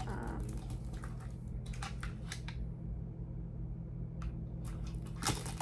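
Charging cords and plastic wall plugs being handled and sorted: scattered rustles and clicks, with a sharper click near the end, over a steady low hum.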